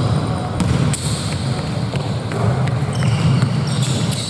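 Indoor basketball game sounds in a gym: the ball bouncing on the hardwood court with sharp knocks, sneakers squeaking briefly, and a steady murmur of the hall and players behind.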